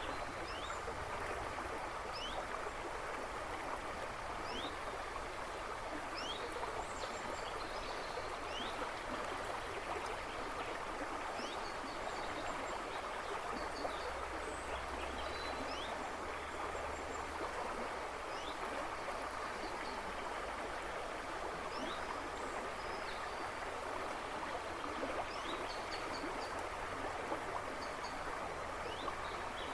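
River water rushing and babbling steadily, with small birds chirping now and then in short high notes.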